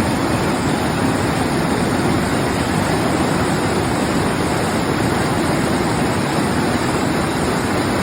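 A waterfall running high with spring runoff: a steady, loud rush of falling water.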